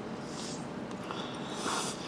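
Soft breathing through the nose and small mouth noises while eating, with a louder breath or rustle near the end.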